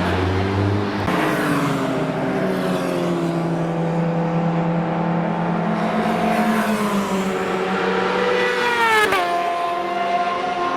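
Supercharged 998cc Kawasaki H2R inline-four engine in a small Fiat 600L, running hard with its pitch climbing steadily. About nine seconds in the pitch drops sharply, then starts climbing again.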